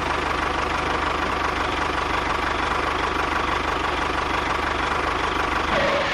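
Small engine of a homemade mini tractor running steadily with a rapid, even firing pulse.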